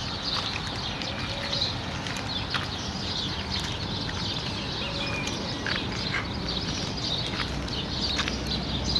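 Many small birds chirping in the palms, short high calls coming thick and irregular, over a steady low background hum of wind and farm noise.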